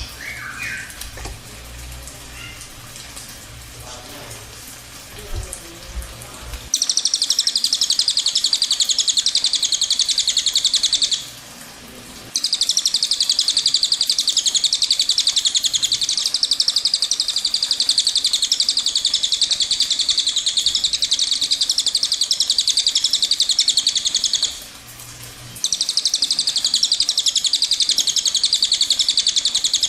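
Cililin bird singing its long rolling trill (ngerol panjang): a very fast, high-pitched run of notes that starts about a third of the way in and carries on for many seconds, broken twice by a pause of about a second. Before it, only a few faint chirps over a low hum.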